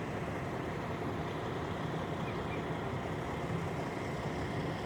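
Steady hum of a truck engine idling.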